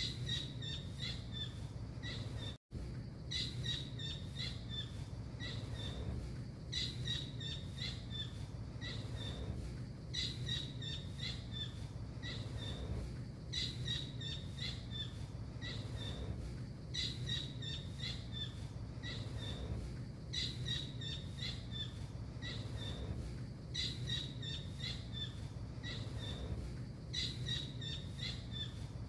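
Blue kingfisher (tengkek biru) calling: bursts of rapid, sharp, high notes, repeated about every three seconds, over a steady low hum. The sound cuts out for a moment about two and a half seconds in.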